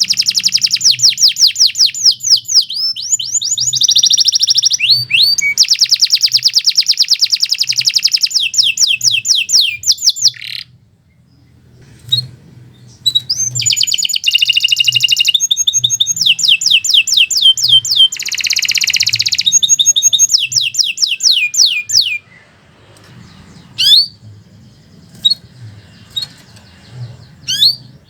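Domestic canary singing long, continuous song phrases of fast repeated trills. One phrase runs about ten seconds, then after a pause of about three seconds a second phrase runs about eight seconds. A few short scattered chirps follow near the end.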